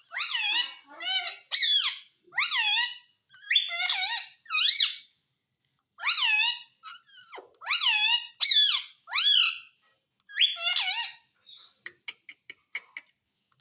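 Pet parrot calling in a run of short, high-pitched squeaky calls, each bending in pitch, about a dozen in all with brief pauses between them and a longer gap near the end.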